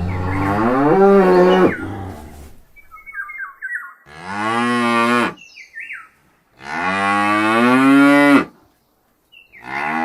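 Cow mooing: three long moos, with another starting near the end.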